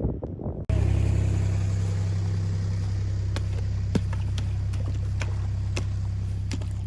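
Truck engine running steadily with a low hum, as heard from inside the cab, with a few light clicks over it.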